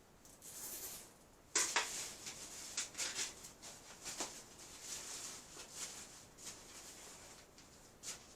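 Rustling and scraping of things being handled, with a sharp click about one and a half seconds in and lighter clicks after it.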